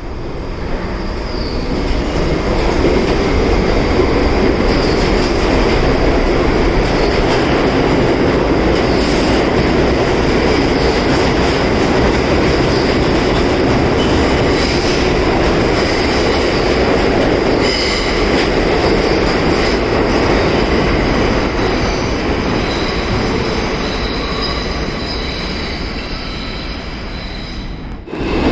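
New York City subway R62A train running on the rails, its noise building over the first few seconds with a rising motor pitch as it picks up speed, then continuing loud with high wheel squeal and rail clatter. The sound cuts off abruptly near the end.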